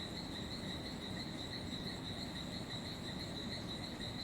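Amazon rainforest dusk chorus, led by one steady, high-pitched pulsing trill that runs on without a break over a low background hum.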